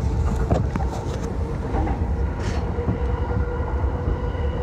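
Yamanote Line commuter train running along the track, heard from inside the car: a steady low rumble with a constant whine and a few sharp clicks.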